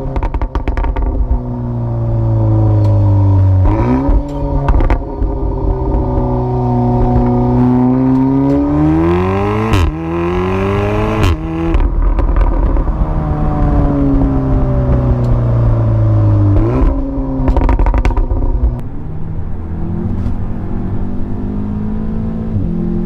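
Remapped turbocharged 2.0-litre four-cylinder engine of an Audi S3 8V, heard from inside the cabin, pulling hard with its pitch climbing. Quick DSG gear changes break the climb a few times, and the engine speed then falls away.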